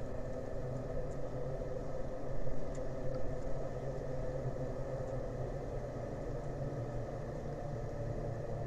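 Steady low engine rumble with a constant deep hum, running evenly without revving.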